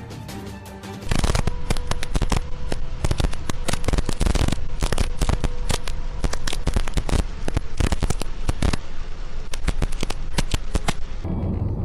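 A long run of rapid, irregular sharp cracks and bangs, starting about a second in after a short stretch of music and stopping shortly before the end.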